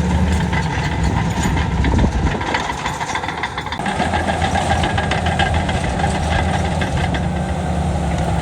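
Heavy diesel engine of earthmoving machinery running, with a rattle of small metallic clicks; the engine note dips about three seconds in, then comes back stronger.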